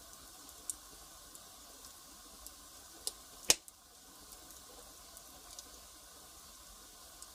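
Wood fire crackling: a faint steady hiss with scattered small ticks and one loud sharp pop about three and a half seconds in.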